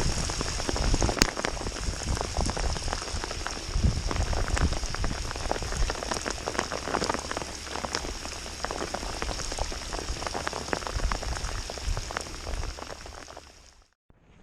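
Heavy rain falling close to the microphone, a dense patter of many drops. It fades near the end and cuts off suddenly.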